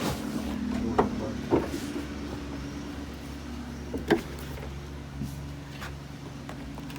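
Steady low mechanical hum with a few sharp knocks, the loudest about four seconds in.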